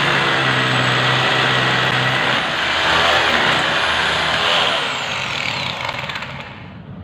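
A loud engine running steadily, then fading away near the end.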